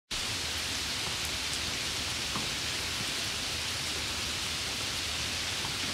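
Steady rain falling on a wet brick courtyard: an even hiss with a few faint drop ticks.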